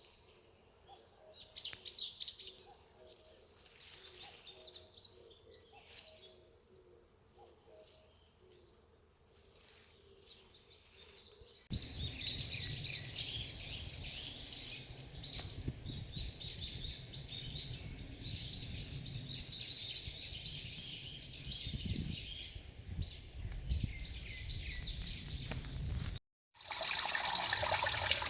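Wild birds chirping and singing in mountain forest, with many short high calls and, in the first part, a faint series of lower repeated notes. After about twelve seconds the birdsong comes louder over a low rumble. Near the end it cuts to a mountain stream rushing over rocks.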